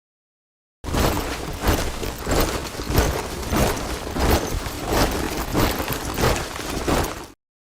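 Soldiers marching in step, boots stamping in a steady rhythm of about two to three steps a second. The sound cuts in after almost a second of dead silence and cuts off suddenly near the end.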